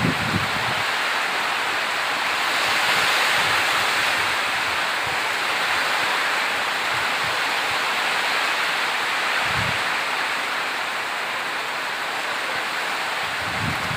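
Steady heavy rainfall, a dense even hiss, with a few dull low thumps, such as heavier drops or drips landing, near the start, about two thirds through and near the end.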